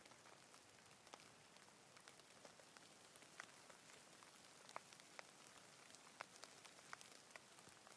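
Soft, steady rain falling, with many separate drops ticking at irregular intervals over the hiss.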